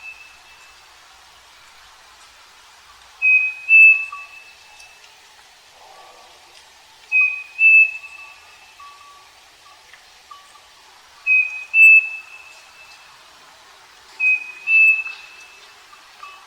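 Striped cuckoo (saci) singing its whistled two-note song, the second note slightly higher and longer, repeated four times about every four seconds.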